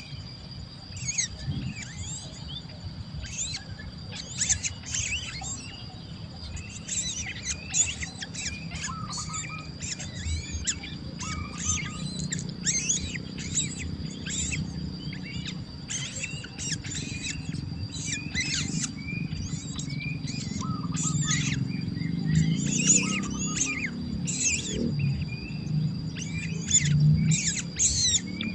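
Baby birds chirping over and over in quick, short high calls, with a steady high-pitched tone running underneath and a low rumble that swells in the second half.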